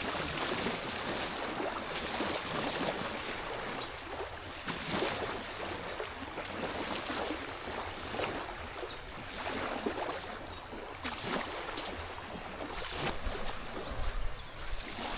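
Small waves lapping along a sandy shoreline, a steady wash of water with irregular splashes. Wind buffets the microphone near the end.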